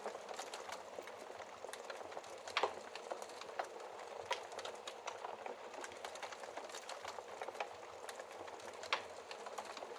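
Wood fire crackling in a fireplace: a steady hiss of burning logs with many irregular small snaps, and two louder pops about two and a half seconds in and near the end.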